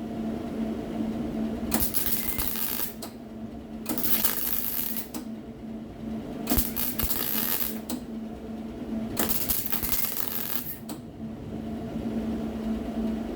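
Electric welder laying a series of short welds on sheet-metal body panel, about five bursts each a second or so long, with a steady hum underneath.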